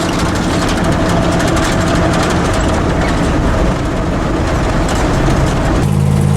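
Old dump truck driving on the road, heard from inside the cab: steady engine drone under loud road and wind noise. Near the end the road noise drops away and the engine's low hum comes forward.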